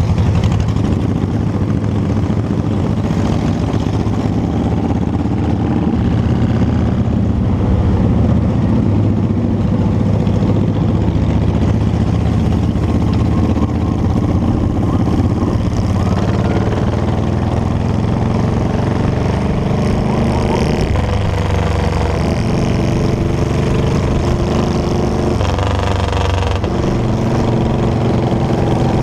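Motorcycle engine running on the road, loud and steady, its pitch slowly climbing through the second half and shifting abruptly near the end, as with a gear change.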